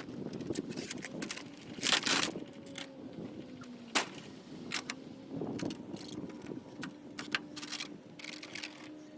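Hand tools clanking and scraping on metal parts of a machine being taken apart, with scattered clinks and a louder clatter about two seconds in, then a sharp metallic knock about four seconds in. A faint steady hum runs underneath.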